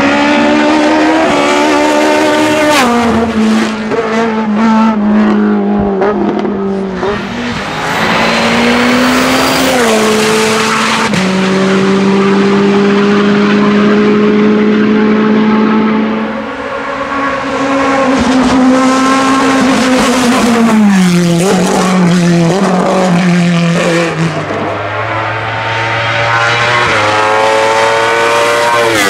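Race car engine at full throttle, climbing in pitch and dropping sharply at each upshift, then held at steady high revs for several seconds. After that the revs fall away, with a few quick blips on the way down, and settle at a lower note.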